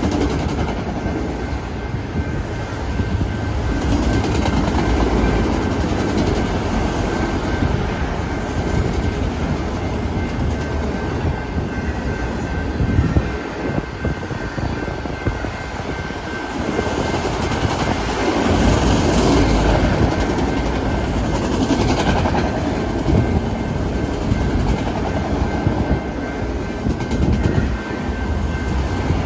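Canadian Pacific manifest freight train rolling past, a steady rumble of wheels on rail that swells and eases as the cars go by.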